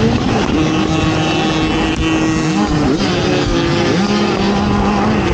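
Off-road racing ATV engine revving hard, its pitch rising and falling again and again as the throttle opens and closes.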